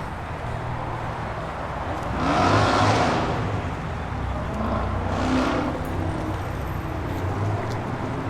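Car engines running with a steady low idle throughout, and two louder swells of engine and road noise about two and five seconds in, each rising and falling over about a second, like cars driving past.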